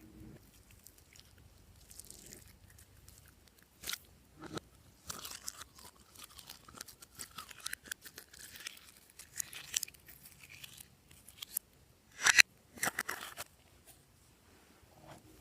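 Glossy slime being kneaded and squished by hand, giving irregular sticky crackles and small pops, with two louder pops late on.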